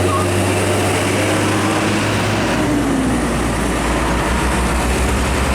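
Heavy truck engine running as a tanker truck goes by in traffic. A steady low engine note drops to a deeper, pulsing note about halfway through.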